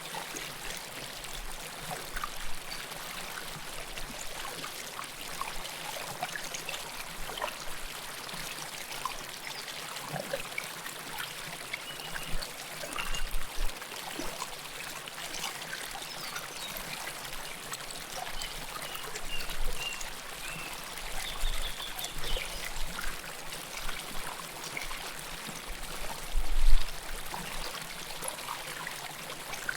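River water flowing close to the microphone: a steady rush with many small gurgles and trickles. Occasional low bumps rise through it, the strongest a few seconds before the end.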